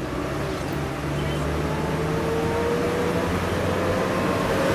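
Bus interior: the engine runs with a steady low rumble, and from about two seconds in a thin whine slowly rises in pitch as the bus gathers speed.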